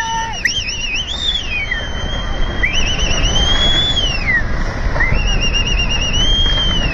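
An electronic siren cycling between a fast warble and long rising-and-falling wails, over a steady low rumble.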